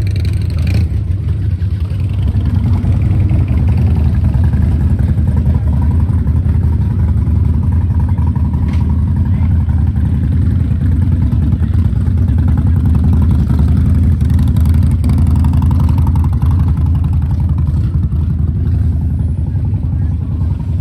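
Motorcycle engine running steadily at close range, a low, rapid firing beat with little change in speed.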